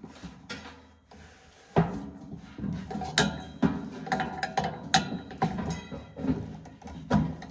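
Irregular clanks and knocks of hand tools and metal parts being worked on a gas furnace, some strikes briefly ringing.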